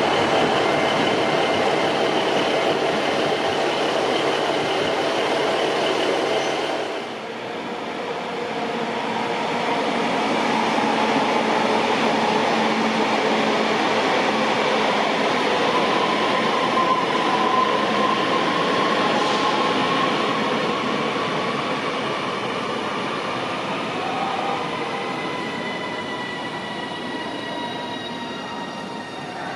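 A Class 390 Pendolino electric train running past, which cuts off suddenly about seven seconds in. It is followed by a Northern passenger multiple-unit moving along the platform, its steady whine rising slightly midway and then gradually fading.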